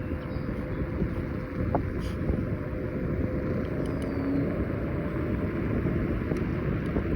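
Road and tyre noise with wind rushing over the microphone while riding a Kaabo Wolf Warrior 11 Pro electric scooter, and a faint steady whine that stops about halfway through.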